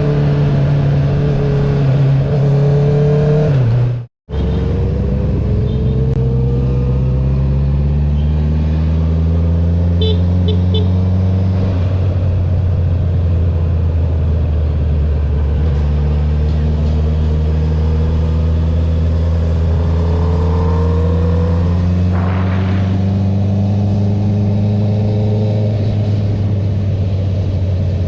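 Honda CB650R's inline-four engine through an Akrapovic titanium full-system exhaust with the dB killer removed, running under way. The sound cuts out briefly about four seconds in. Then the engine pitch climbs slowly as the bike pulls, and it settles into steady cruising.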